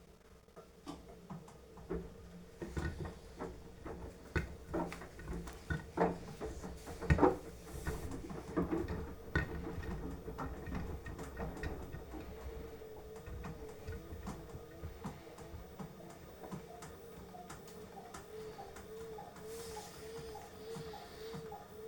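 Beko washing machine's drum starting to turn after a still pause: wet laundry tumbling with irregular knocks and patter, then the drive motor humming with a tone that wavers up and down about once a second as the drum rotates.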